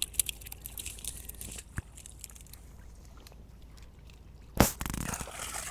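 Water splashing and trickling in a shallow pool as it is bailed and worked by hand, with quick small splashes and clicks at first, a quieter stretch, and one sharp knock followed by a burst of splashing near the end.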